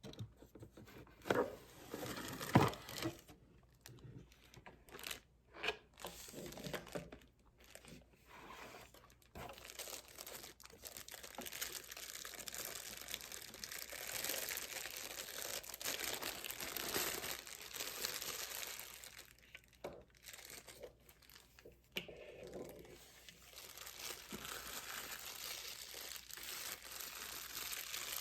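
Product packaging crinkling and tearing as it is handled: separate crackles and clicks for the first several seconds, then near-continuous crinkling with a short lull a little past the middle.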